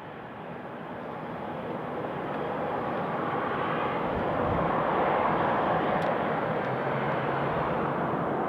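Airbus A350-900's Rolls-Royce Trent XWB turbofan engines running, a steady jet rush with a low engine tone that grows louder over the first few seconds and then holds.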